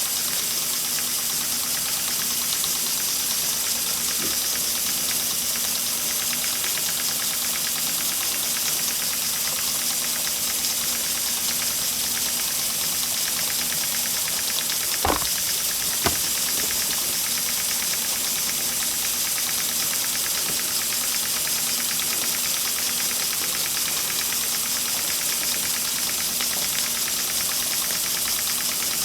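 Two small live steam engines, a 70-year-old Empire B43 and a 104-year-old engine, running steadily together with a constant steam hiss. Two sharp clicks about a second apart near the middle.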